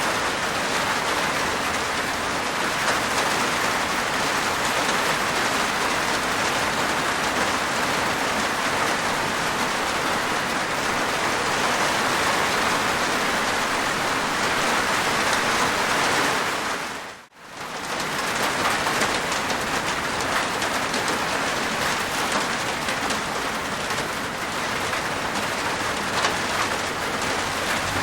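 Steady heavy rain falling on a rooftop, a dense even patter. A little past halfway it dips out for a moment and comes straight back, like an edit in the recording.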